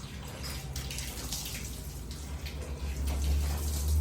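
Cat lapping water, a run of small wet splashes as it drinks on and on. A low rumble grows louder about three seconds in.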